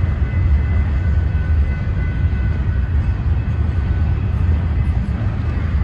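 Freight cars of a passing train rolling by at close range: a steady low rumble of wheels on rail, with a faint high steady ringing tone over it.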